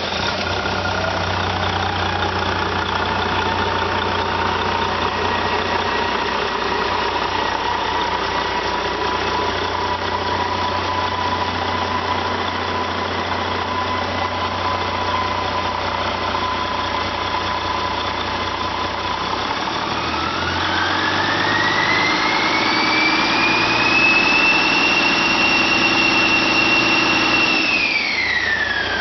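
2013 Detroit Diesel DD15 inline-six diesel engine running after start-up, idling steadily with a high whine. About two-thirds of the way through it revs up, the whine rising in pitch and holding, then drops back toward idle near the end.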